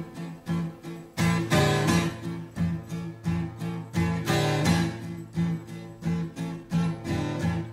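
Background music: an instrumental break in a folk song, a guitar strummed in a steady rhythm of about three strums a second, then stopping abruptly.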